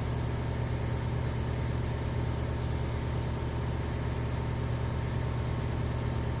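A steady low mechanical hum with an even hiss over it, unchanging in level or pitch.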